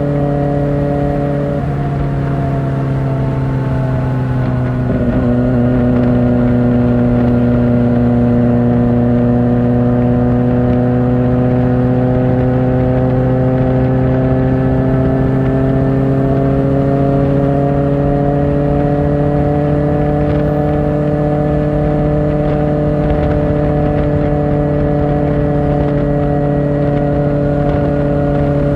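Kawasaki Ninja ZX-4R's inline-four engine with an Akrapovic exhaust, running under way at steady revs. The note sags slightly for a few seconds, then the throttle opens about five seconds in and the pitch climbs slowly as the bike gains speed.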